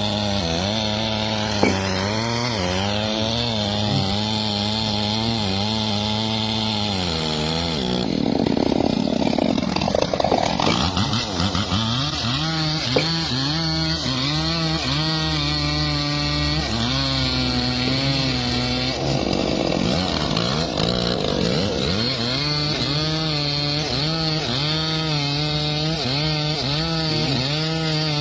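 Chainsaw running and cutting through wood, its engine note rising and falling as the chain bites. The cutting turns louder and rougher about a third of the way in, and again briefly past the middle.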